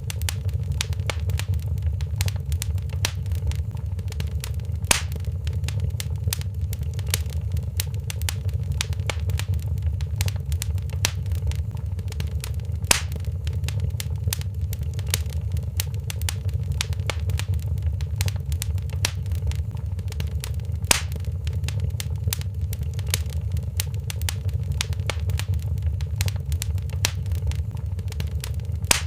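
Wood fire crackling in a fireplace: a dense run of small crackles over a steady low rumble, with a sharper pop about every eight seconds, four in all.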